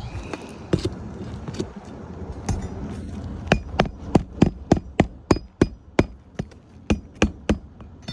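Hammer driving roofing nails to fasten a lifted roof shingle back down during a repairability test. A few scattered knocks come first, then a quick run of about a dozen sharp strikes, roughly three a second.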